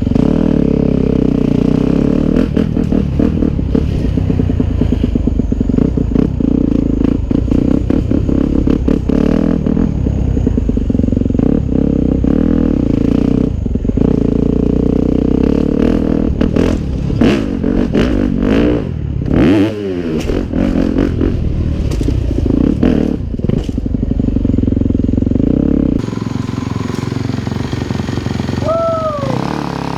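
A Yamaha 250F dirt bike's single-cylinder four-stroke engine running and being revved, with a dense run of clattering knocks through the middle and quick rises and falls in revs a little past halfway.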